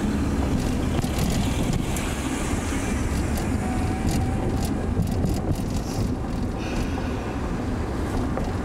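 Steady low rumble of road noise inside a moving car's cabin, with scattered light ticks.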